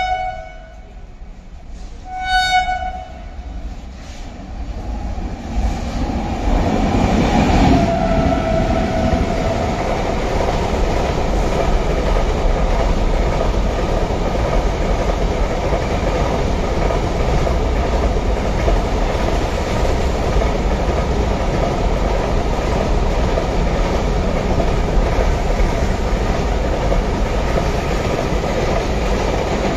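Two short blasts of a WAG-9H electric locomotive's horn about two seconds apart. Then the noise of the container freight train builds, and from about seven seconds in its wagons run past at speed with a loud, steady rumble and clatter of wheels on rail.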